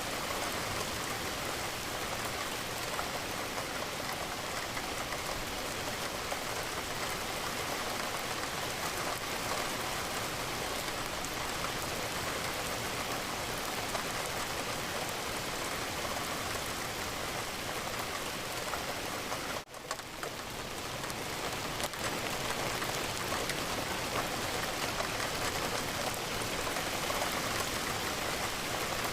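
Steady rain falling, an even wash of raindrops. It cuts out for an instant about two-thirds of the way through, then comes back.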